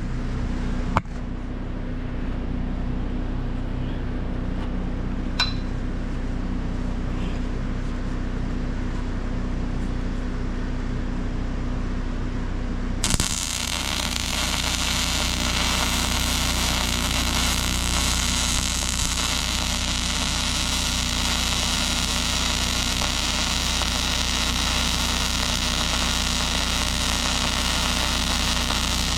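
Steady electrical hum from the welding setup, with a couple of small clicks. About 13 s in, the arc strikes and a steady crackling hiss of arc welding on the tacked-in steel repair plate runs on.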